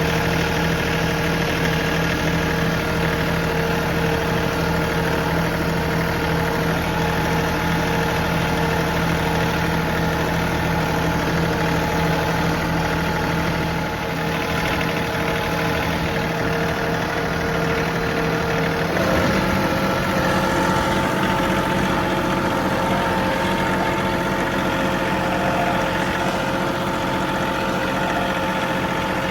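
John Deere 3038E compact tractor's three-cylinder diesel engine running steadily; about two-thirds of the way through its note shifts slightly higher and stays there.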